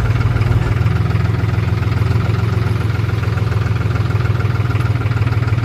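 Powertrac Euro 45 Plus tractor's diesel engine running steadily, with a slight change in its note about a second in.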